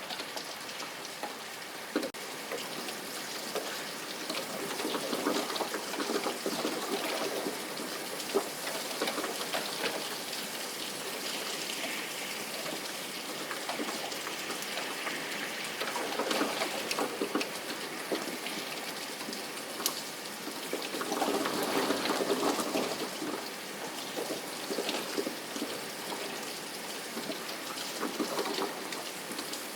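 Steady rain with a dense patter of drops, swelling louder for a few seconds now and then.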